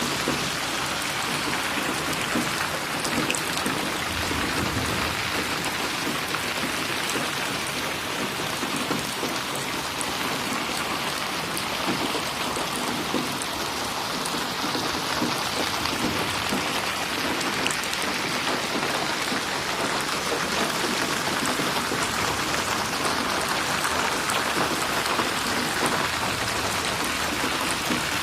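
Steady rain falling, with individual drops splashing and ticking close by.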